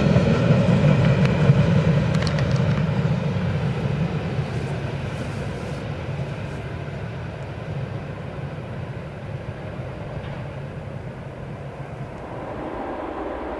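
Freight train rolling past on the rails, its low rumble fading as it moves away.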